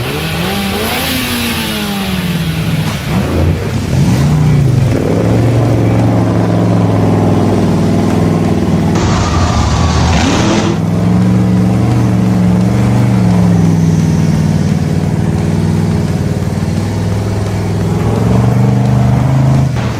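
Monster truck engine revving, rising and falling in pitch, then running at a fairly steady pitch with slight wavering. A short burst of hiss comes about nine seconds in.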